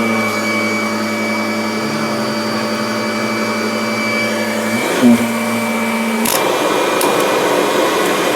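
Kirby Avalir upright vacuum cleaner running steadily over carpet, with a brief bump about five seconds in. About six seconds in its steady hum drops out, leaving a rushing airflow noise.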